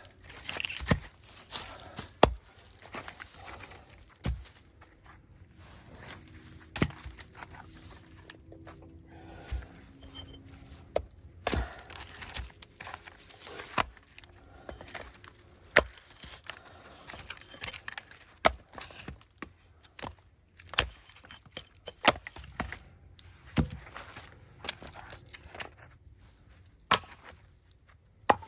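Firewood being split: a series of sharp chopping strikes into wood, irregularly spaced a second or two apart.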